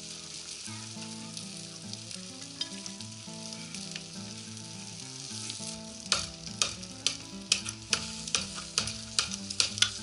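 Food frying on an iron griddle over a wood fire: a steady sizzle, with sharp pops and crackles of spitting fat coming in about six seconds in, several a second.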